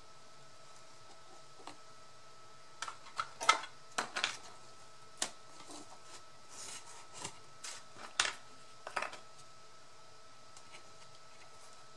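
Handling noises of paper-craft work: irregular clicks, taps and short scrapes, bunched in two spells a few seconds apart, over a faint steady whine.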